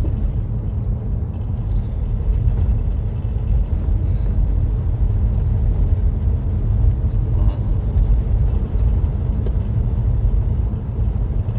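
Steady low rumble of a Volkswagen Caddy van being driven, engine and tyre road noise heard from inside the cab.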